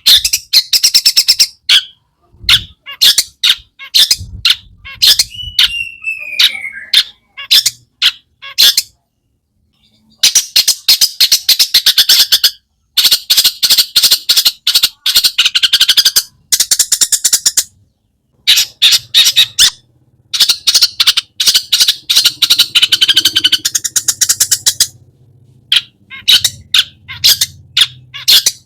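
Long-tailed shrike (cendet) singing a harsh, rapid chattering song in fast runs of notes broken by short pauses, with one falling whistle about five seconds in. It is a mimicry-filled ('isian') song.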